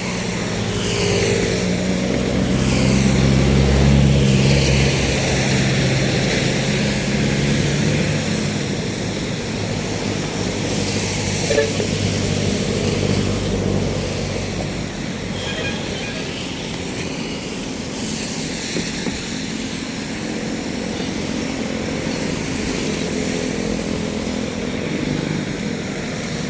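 Ferry boat's engine running steadily, with water rushing and wind noise over it; the engine hum is strongest in the first several seconds, then sinks under the rushing.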